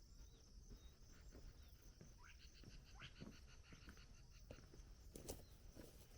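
Faint outdoor quiet with scattered soft footsteps on a trail, and a short, high bird trill of quick repeated chirps about halfway through.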